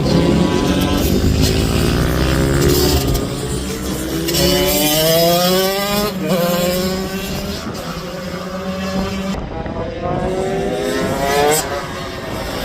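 Racing minibike engines at high revs, pitch climbing through the gears, with a sudden drop at a gear change about six seconds in and another climb near the end. Several bikes can be heard at once.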